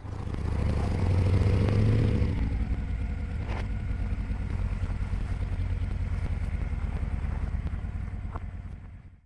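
V-twin cruiser motorcycle engine running, swelling over the first two seconds, then steady, and fading out at the end.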